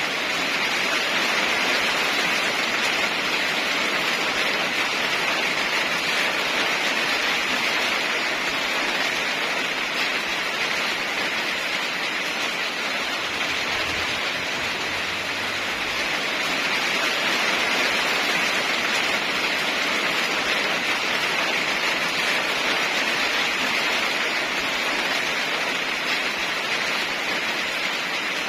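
Heavy rain falling steadily as an even hiss, swelling and easing only slightly, with no thunder.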